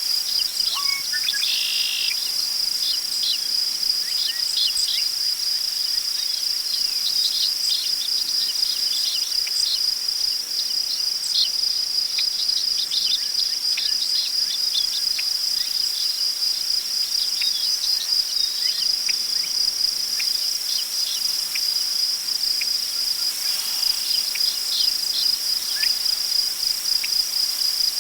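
Crickets trilling in one steady, high, unbroken chorus, with short bird chirps scattered throughout over a soft rustle of wind in tall prairie grass.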